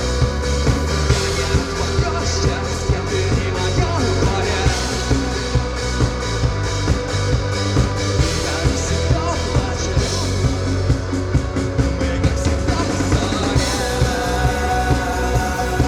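Rock band playing live: drum kit keeping a steady beat under bass and guitars.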